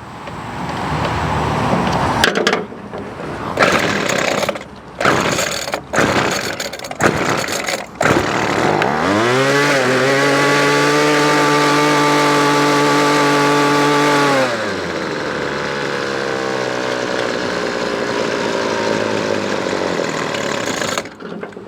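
Weedeater Featherlite SST25's 25cc two-stroke trimmer engine running unevenly, dipping several times, then revving up and held at high revs for about five seconds. It falls back to a fast idle that keeps the head spinning, an idle set too high that the carburetor adjustment won't bring down. It cuts off near the end.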